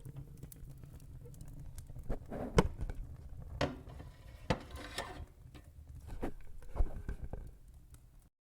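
Fire crackling: irregular sharp pops and snaps over a low rumble, the loudest pops about two and a half and nearly seven seconds in. The sound cuts off suddenly near the end.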